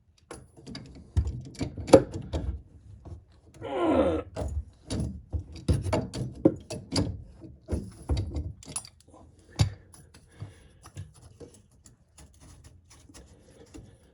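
Knocks, clicks and clatter of drain parts and tools being handled under a sink, with a brief falling squeal about four seconds in. The knocks thin out after about ten seconds.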